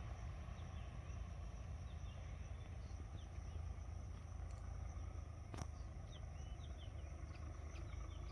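Quiet outdoor ambience: a steady low rumble under many short bird chirps and a continuous high insect drone, with one sharp click about halfway through.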